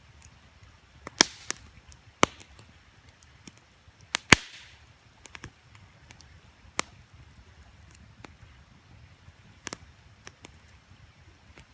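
Wood campfire crackling: scattered sharp pops and snaps, the loudest a bit over a second in, about two seconds in and just past four seconds, the last followed by a short hiss. A faint steady background runs under them.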